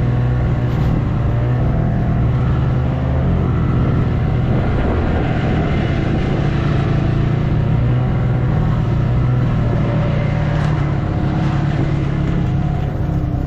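Snowmobile engine running at a steady speed, a continuous drone that holds its pitch.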